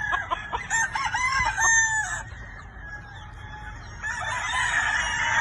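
Roosters crowing and chickens clucking, several calls in quick succession over the first two seconds, a brief lull, then a denser chorus of crowing from about four seconds in.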